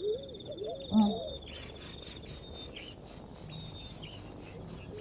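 Outdoor insect and bird chorus: a steady, high insect trill with rapid pulsing, over repeated short low-pitched bird calls. A brief, louder low call sounds about a second in.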